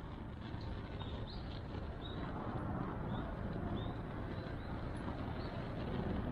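Steady low outdoor rumble with a small bird giving short, high chirps about once or twice a second.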